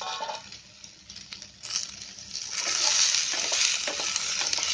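Sweet potato strips sizzling in ghee in a kadhai. From about two seconds in a spatula stirs and scrapes them around the pan and the sizzling gets louder.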